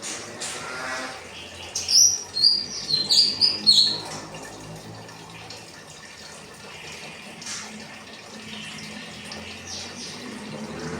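Kinoi bird singing a quick run of high, clear notes that step up and down in pitch for about two seconds, over a steady background hiss.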